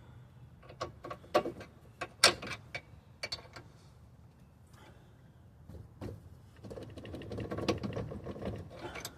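Metal clinks and knocks of hand tools and parts on a car's front suspension: several sharp strikes in the first few seconds, the loudest about two seconds in, then a denser mechanical rattling from about six and a half seconds in.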